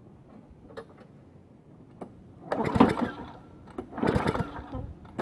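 Lawnmower engine pull-started twice, cranking over in two clattering bursts of about a second each, the second following about a second after the first, without running. A spark plug tester is wired inline to check for spark.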